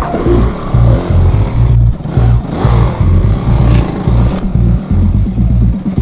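Off-road motorcycle engine revving, its pitch rising and falling, over electronic music with a heavy, evenly pulsing bass beat.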